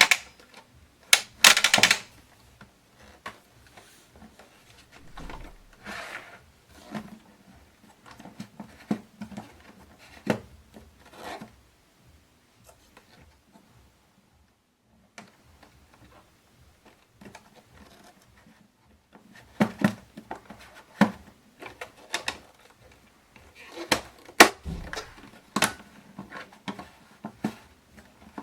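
Hands handling a handheld vacuum cleaner and its packaging: scattered clicks, taps and rubbing, with a pause of a few seconds around the middle and a denser run of clicks near the end.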